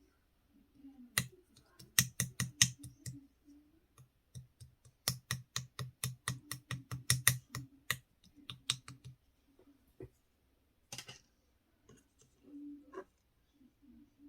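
Mixed slime being pressed and squished by hand, giving crisp clicking pops in quick runs of about four or five a second, then a few scattered single pops.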